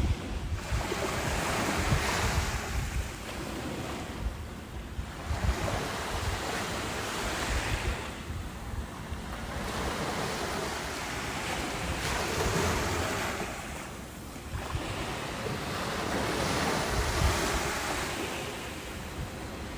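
Ocean waves breaking and washing ashore in slow, steady surges, one swelling and fading every four to five seconds.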